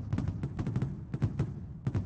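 Fireworks going off in a rapid, uneven volley of bangs and crackles, several each second.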